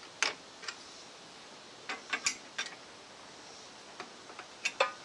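Short metallic clicks and knocks in small clusters, the loudest near the end: the chuck key working the jaw screws of a lathe's four-jaw chuck while a part is adjusted to centre.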